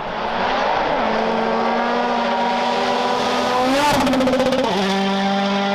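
World Rally Car's turbocharged 1.6-litre four-cylinder engine at full throttle on a rally stage, its pitch climbing, held high, climbing again, then dropping sharply near the end, with a brief crackle near the top.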